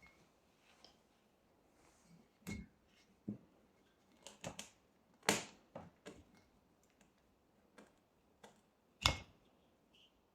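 Scattered sharp clicks and knocks of tools and parts being handled, about a dozen in all, the two loudest about five and nine seconds in.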